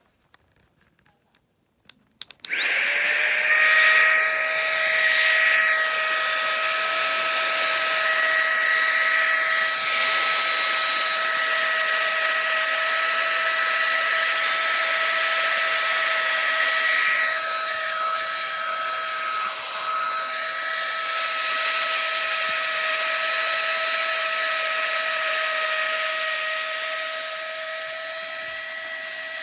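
Small battery electric air pump starting up about two and a half seconds in: its fan motor spins up within a moment and then runs with a steady whine, easing off slightly near the end.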